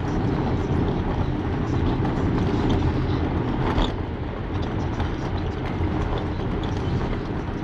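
Steady road and engine rumble from a moving car, heard from inside the cabin.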